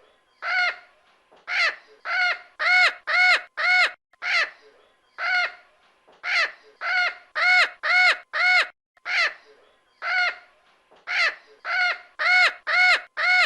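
Crow cawing: about twenty harsh caws in series of two to five, about two a second, each call rising and falling in pitch.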